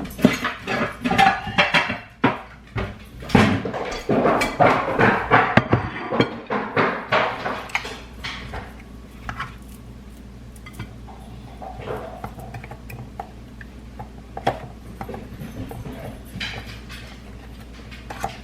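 Dishes and cutlery clattering: a busy run of clinks and knocks for the first several seconds, then only an occasional clink.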